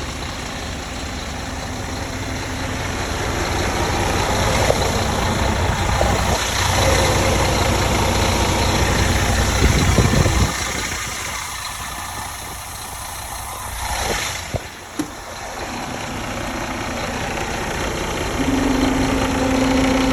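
Scania G400 truck's 13-litre straight-six diesel idling, its sound swelling and easing off. About fourteen seconds in there is a short hiss and two sharp clicks, and near the end a steady tone joins in.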